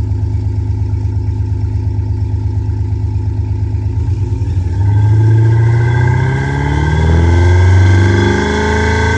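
THOR Active Sound electronic exhaust generator playing a simulated engine exhaust note through its speaker: a steady, pulsing idle, then revving up and down from about five seconds in.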